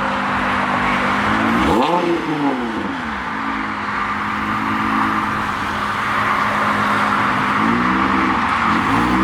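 A car's engine revving hard. Its pitch climbs about two seconds in and falls back, then climbs again near the end, over a steady hiss.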